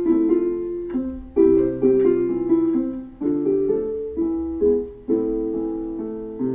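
Instrumental interlude of a slow ballad: a keyboard with a piano sound plays sustained, decaying chords that change about every two seconds over a low bass line.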